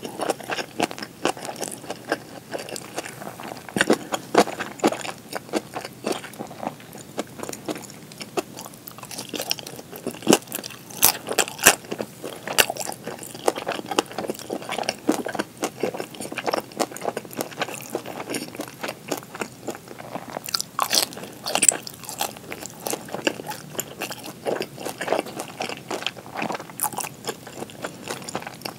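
Close-miked eating sounds: chewing rice and pan-fried gyoza, with a steady run of small wet mouth clicks and a few louder sharp bites.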